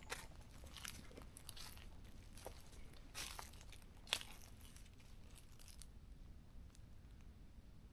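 Faint footsteps crunching on dry leaf litter and twigs, irregular crackles with one sharper snap about four seconds in; the steps die away after about six seconds.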